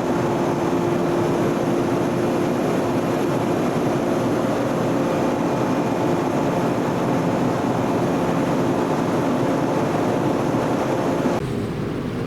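Steady running noise of a train with a constant low hum, changing abruptly about a second before the end.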